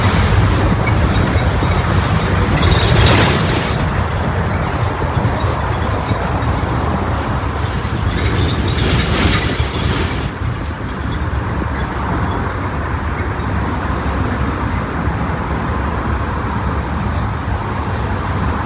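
Mercedes-Benz OF-1722M bus's diesel engine running with a steady low drone. Two brief hissing bursts come about three seconds in and again around nine seconds, and the level eases slightly after that.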